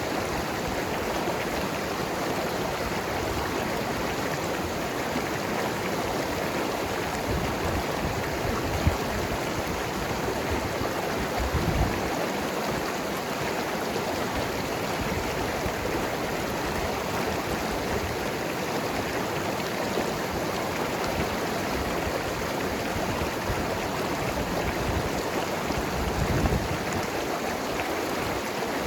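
Mountain river flowing and gurgling over rocks in a steady rush, with a few brief low thumps, the loudest about twelve seconds in.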